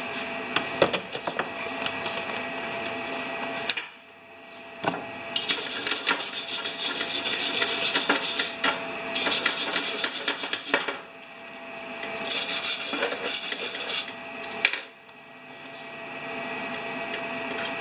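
Flux-core wire-feed welder arc crackling in three short runs of a few seconds each as it lays weld on a steel muffler, with quieter scraping and a faint steady hum between runs.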